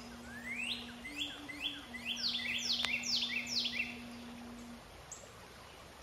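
A songbird sings one phrase of about ten quick sweeping notes, roughly three a second, growing louder toward the middle and ending about four seconds in. A steady low hum runs underneath.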